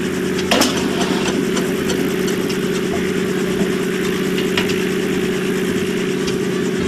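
A vintage engine idling steadily with a fast, even beat, with a sharp click about half a second in.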